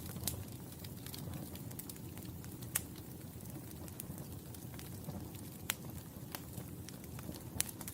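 Wood fire burning in a fireplace: a steady low rumble of flames with irregular crackles and sharp pops, the loudest snaps coming about three seconds in, near six seconds and just before the end.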